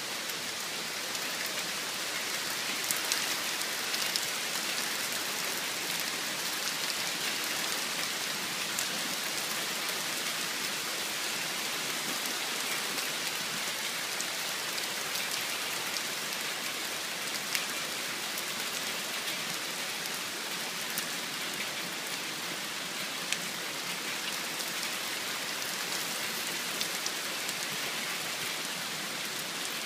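Heavy rain pouring down steadily in a dense hiss, with scattered sharper drop hits here and there.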